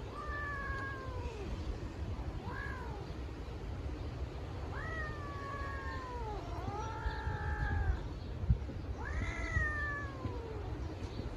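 Domestic cat meowing: about five long, drawn-out meows, each rising then falling in pitch, one after another. A short thump is heard about two-thirds of the way through.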